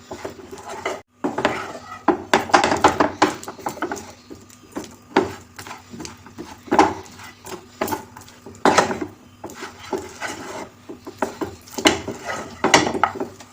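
A spoon scraping and knocking against a pan in irregular strokes as roasted peanuts are stirred into thick jaggery syrup cooked to the hard-crack stage, mixing peanut candy.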